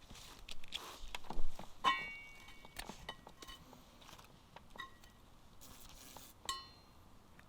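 Scattered knocks and clinks of cookware or tableware being handled. The loudest sharp knock comes about a second and a half in, and two clinks ring out briefly, about two seconds in and near the end.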